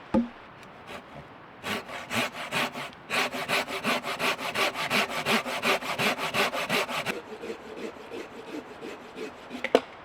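Hand saw cutting through a wooden log in quick, even back-and-forth strokes. After a short burst, steady sawing runs for about four seconds and then stops, with a knock just after the start and another near the end.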